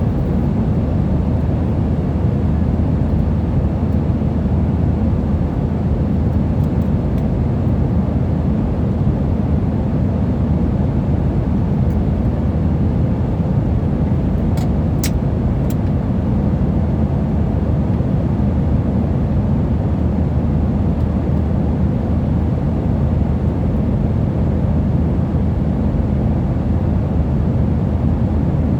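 Steady drone of a passenger plane's engines and airflow heard inside the cabin, mostly a low rumble with a faint hum. A couple of faint clicks about halfway through.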